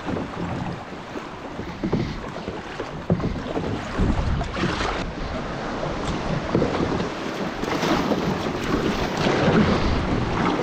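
Water sloshing and splashing around a kayak on the move, with wind buffeting the microphone and a few sharper splashes or knocks about three to five seconds in.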